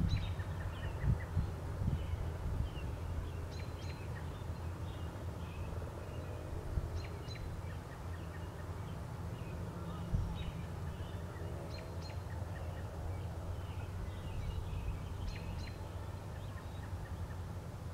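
Wild birds chirping and calling here and there, over a steady low rumble that a poor microphone picked up outdoors.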